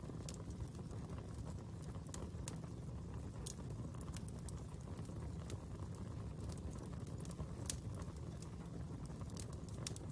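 Fire burning with a steady low rush and scattered sharp crackles and pops, one a little louder about two-thirds of the way through.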